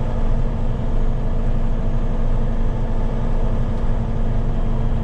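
Heavy tow truck's diesel engine running steadily while driving at low road speed, a constant low drone with road noise.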